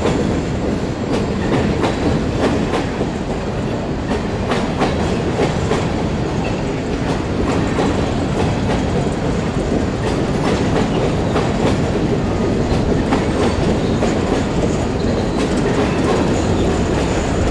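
Railroad cars rolling past at steady speed, a continuous rumble with wheels clicking over the rail joints.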